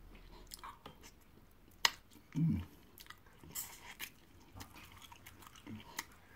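A person biting and chewing a piece of stockfish up close, with wet mouth clicks. There is one sharp click a little under two seconds in and a short low sound about half a second later.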